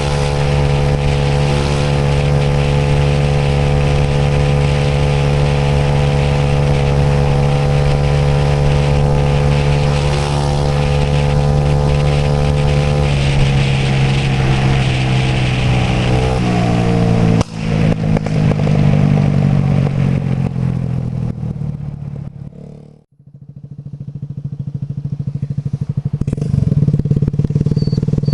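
Suzuki AN125 Burgman scooter's single-cylinder engine running at a steady speed under wind and road noise; about halfway through, the engine note drops as the scooter slows. The sound then fades out to a brief dip of near silence past three-quarters of the way through and swells back up.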